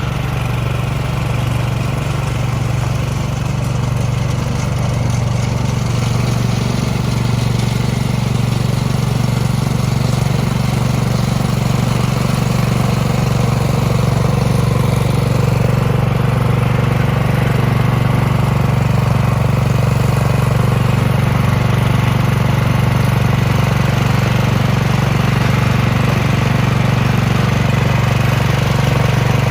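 Small gasoline snow blower engine running steadily.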